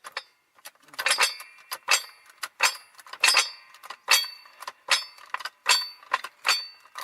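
Jack being pumped to raise a car: a regular run of sharp metal clanks with a ringing tail, about one every 0.8 seconds, nine strokes in all.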